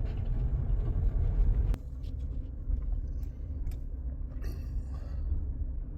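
Car running, a steady low rumble heard from inside the cabin; a sharp click a little under two seconds in, after which the rumble is a little quieter.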